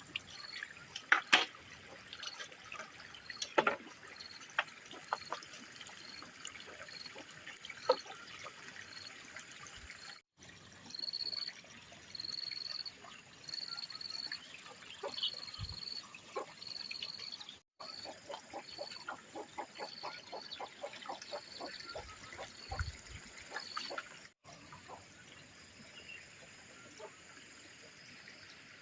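Water trickling, with scattered sharp knocks and clinks of handwork, and a run of short high chirps repeating about twice a second through the middle.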